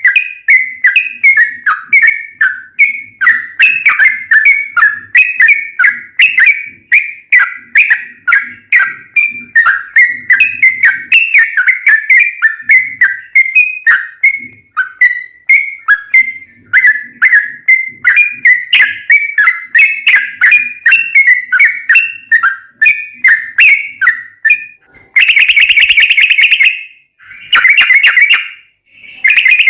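Yellow-vented bulbul (trucukan) song: a fast run of short, bubbling whistled notes, about three or four a second, breaking near the end into long continuous rapid trills (the 'ropel').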